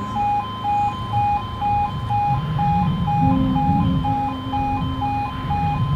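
Level crossing warning alarm beeping steadily, about three beeps a second in two pitches, over a low rumble; a steady low hum joins about three seconds in.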